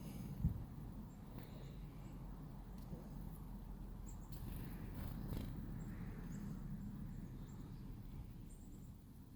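Small wild birds giving short, faint, high chirps every second or so over a steady low rumble, with a few soft taps and rustles.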